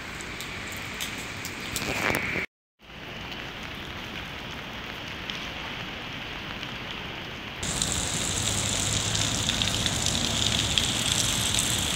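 Steady rain falling on pavement and street, an even hiss that grows louder and brighter about two-thirds of the way through. The sound cuts out completely for a moment about two and a half seconds in.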